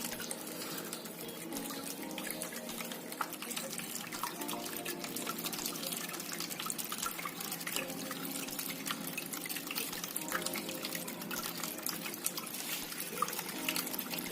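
Water trickling and splashing steadily in a small tabletop waterfall fountain, with many small drips.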